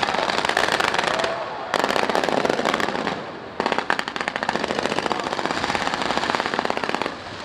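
Fireworks crackling: dense, rapid volleys of sharp pops like a string of firecrackers, in three long runs with short breaks about a second and a half and three and a half seconds in.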